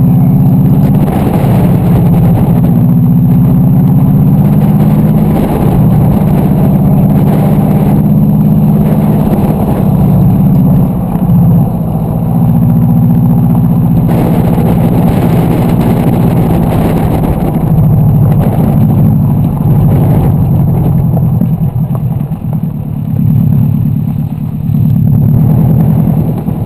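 Subaru Impreza WRX's turbocharged flat-four engine driven hard on gravel, revs climbing and falling through the gears. It eases off briefly about eleven seconds in and again for a couple of seconds near the end, heard from outside the driver's door.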